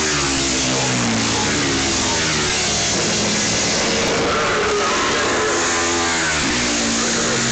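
Classic racing motorcycle engines, 500 to 1000cc, running hard at high revs, with several engine notes at once. The pitch dips and climbs again about six and a half seconds in.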